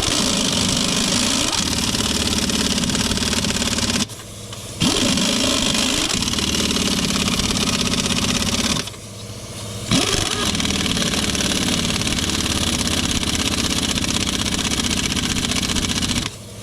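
Pneumatic impact wrench running in three long bursts of several seconds each, with short pauses between them, driving on a trailer wheel's lug nuts.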